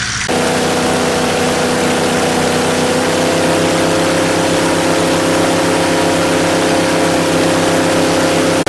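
Electric blower inflating the air-filled car cover, running steadily: a loud rush of air over a constant motor hum. It cuts in abruptly just after the start.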